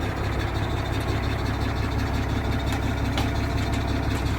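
Heavy diesel engine running steadily at idle, with a few faint clicks near the middle.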